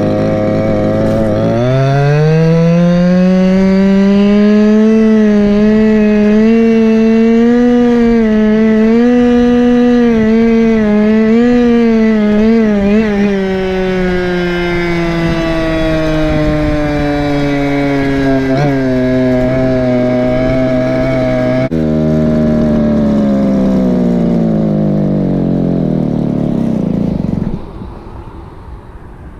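Go-Ped scooter's small two-stroke engine, a Chongyang CY26RC RC-car motor, revving up from idle about two seconds in and running at a wavering steady throttle. Its pitch then slides slowly down as it eases off, drops further after about 22 seconds, and the sound falls away sharply near the end.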